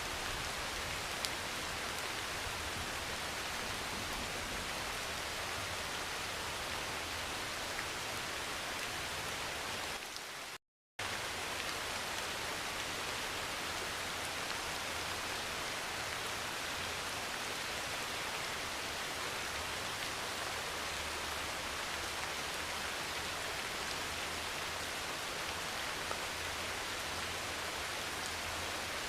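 Steady heavy rain drumming on a metal roof, with a few faint drop ticks. About ten seconds in the sound cuts out completely for half a second, then resumes unchanged.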